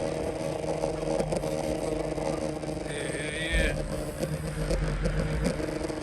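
A car engine idling steadily, with a brief higher-pitched wavering sound about three seconds in.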